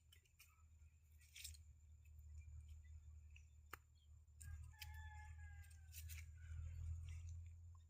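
Near silence: a steady low hum with a few faint scattered clicks, and a faint drawn-out tone about halfway through.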